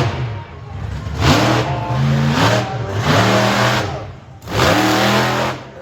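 Monster truck engine revving hard in about four separate blips, each rising and then falling in pitch.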